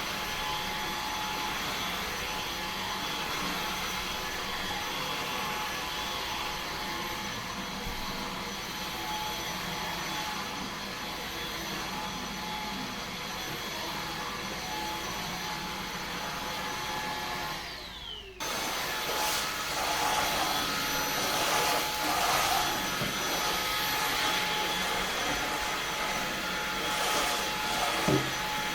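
Eufy HomeVac S11 cordless stick vacuum running steadily. About two-thirds of the way in, the sound briefly drops with a falling whine and a short gap, then the vacuum comes back louder and rougher. A short knock comes near the end.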